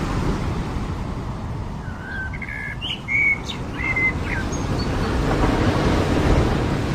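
Ocean surf washing steadily, with a bird giving a few short, clear chirping notes in the middle.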